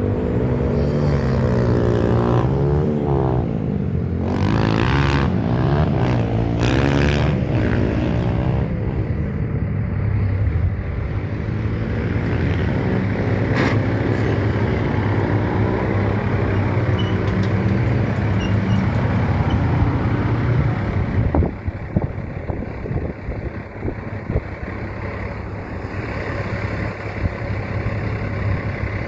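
A large truck's engine running loudly as it goes by, its pitch rising and falling. A few short hissing bursts come early. About 21 seconds in, the engine note drops away, leaving road and traffic rumble.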